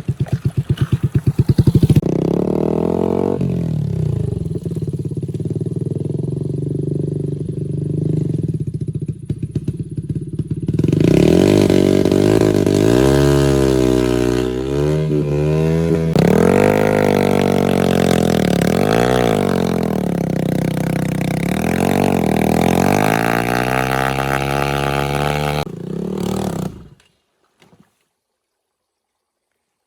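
Off-road motorcycle engine running, firing in rapid pulses at first, then revved up and down repeatedly from about a third of the way in. It shuts off abruptly a few seconds before the end.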